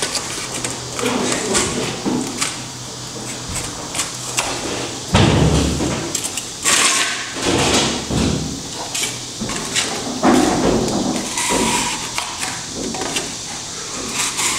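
Irregular knocks and scraping as material is handled and fitted to patch a gap at the base of a wall, with heavier thumps about five, seven and ten seconds in.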